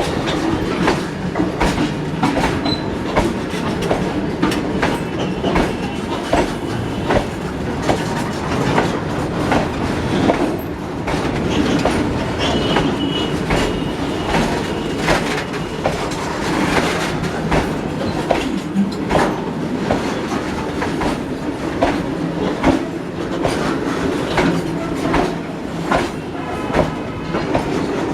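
Loaded freight wagons rolling past, their wheels clattering steadily over rail joints, with a faint high wheel squeal now and then.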